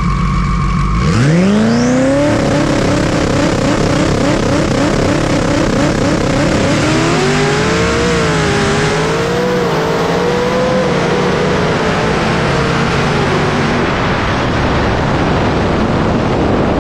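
Engines of cars racing at full throttle. The engine pitch climbs sharply about a second in and then holds high and loud, wavering a little through the middle.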